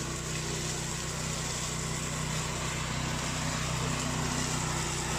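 Remote-control flail mower's engine running steadily under load as it cuts, its note even throughout and growing a little louder near the end.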